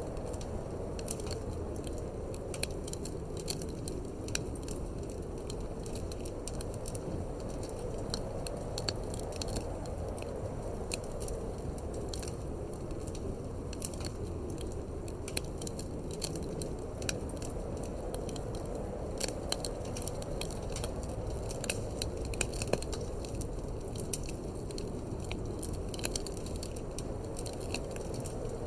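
Wood fire crackling in a fireplace, with many irregular sharp pops and snaps over a steady low rush of wind.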